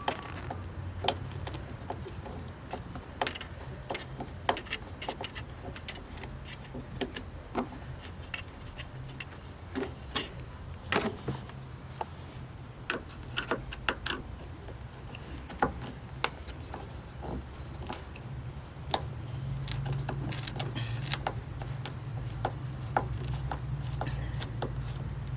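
Irregular sharp clicks and metallic clinks of hand tools and trim clips as a car's interior trim strip and carpet fasteners are worked loose. A low steady hum runs underneath and grows louder about three-quarters of the way through.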